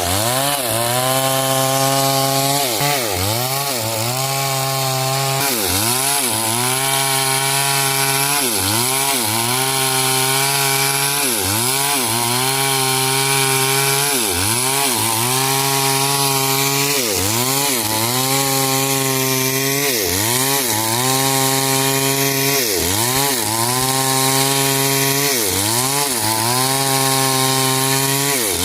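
Stihl 070 two-stroke chainsaw cutting hard coconut wood at high revs. Its pitch dips and recovers every two seconds or so as the chain bogs in the cut and picks up again.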